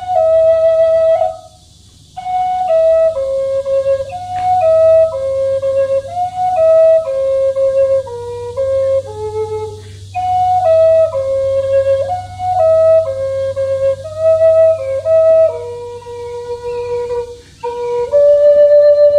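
Solo flute playing a slow melody of held notes in falling phrases, with a short breath break about a second and a half in. A steady low hum runs underneath.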